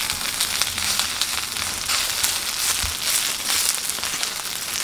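Korean pancakes (jeon) frying on a hot griddle pan, with a steady sizzle dense with fine crackles.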